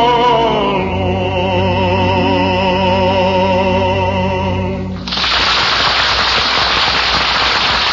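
A male singer holds the song's final word with vibrato over an orchestra, the chord ending about five seconds in; a studio audience then breaks into applause.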